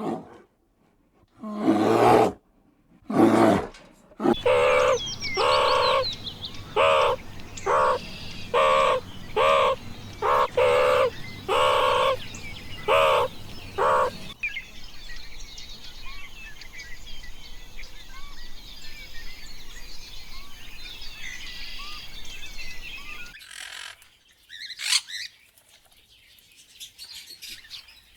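About ten repeated pitched animal calls, each under a second long, follow two short loud sounds. After these, small birds chirp in high, quick twitters.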